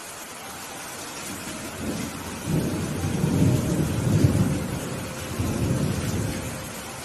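Rain falling steadily while a roll of thunder rumbles in, builds to a peak a few seconds in, and dies away before the end.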